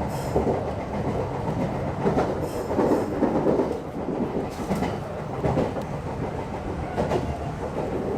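Meitetsu electric commuter train running, heard from inside the car: a steady rumble with irregular clacks and knocks as the wheels pass over rail joints and track.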